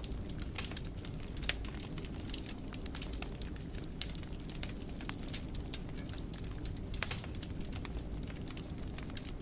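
Wood fire crackling in a fireplace: frequent sharp, irregular pops and snaps over a low, steady rumble of burning flames.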